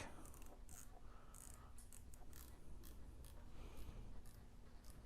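Faint, scattered clicks and scrapes of hands handling and repositioning a motorcycle phone mount, over a faint steady hum.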